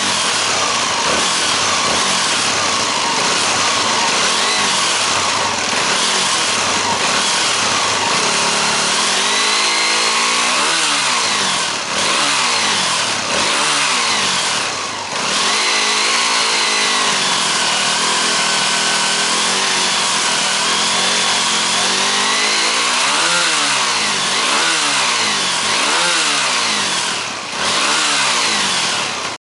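Honda GB250 Clubman's single-cylinder four-stroke engine running through its exhaust. It runs steadily at first, then from about nine seconds in it is blipped repeatedly, the revs rising and falling back each time.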